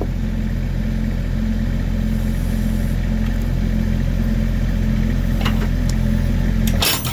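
Volvo EC60E mini excavator's diesel engine running steadily with a low hum. A couple of faint clicks come near the end, then a sharp crack just before the end.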